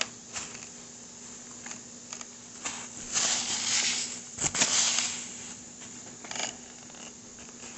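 Rubbing and brushing on a kitchen table as it is wiped clean, in several short stretches, with a sharp knock about halfway through, over a faint steady hum.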